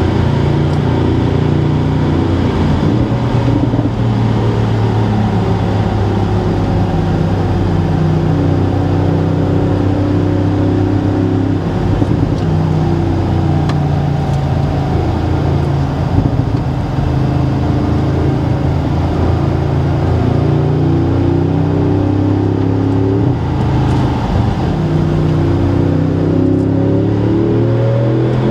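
2018 Audi S6's 4.0-litre twin-turbo V8 running at road speed, heard from inside the cabin with road noise. The engine note holds steady and shifts as the car slows and picks up speed, rising in pitch under acceleration near the end.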